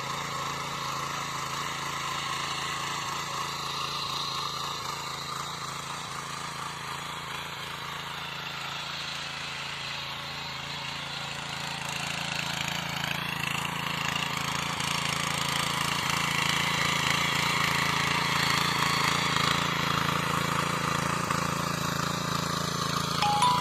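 Sraja power weeder (mini tiller) engine running steadily, growing louder from about halfway through.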